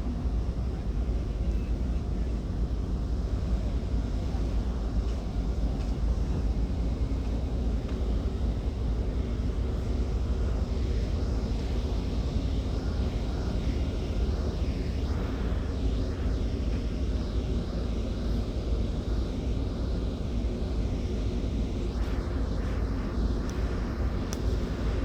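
Steady low rumble of a car ferry's engines, heard on the open upper deck.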